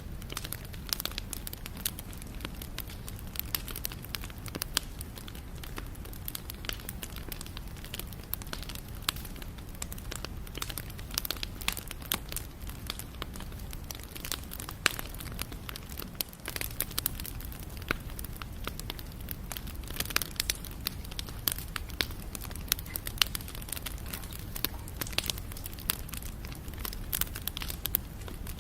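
Wood campfire burning steadily, with dense irregular crackles and sharp pops over a low rumble of the flames.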